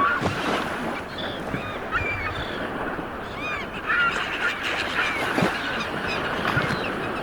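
Sea waves washing onto a shore in a steady rush, with birds giving many short, arching calls over it.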